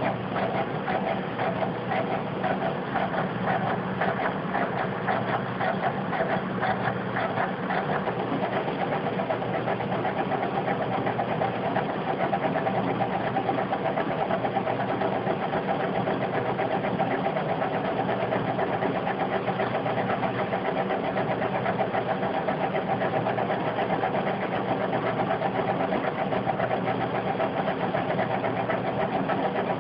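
Scrap-yard DVD player's mechanism running continuously, a machine-like whir with a rapid clattering pulse, the kind of "factory noises" it makes. The clatter is sharper for the first eight seconds or so, then evens out into a steadier whir.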